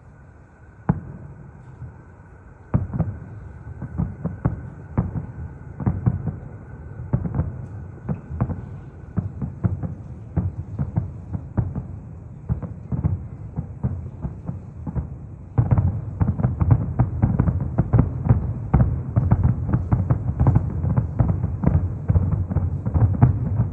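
Aerial fireworks shells bursting far off as deep booms: one about a second in, then a steady run of them from about three seconds, thickening into a rapid, almost continuous barrage from about halfway through.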